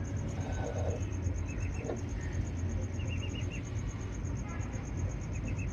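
An insect trilling steadily in a fast, even pulse, with short runs of small bird chirps three times, over a steady low rumble.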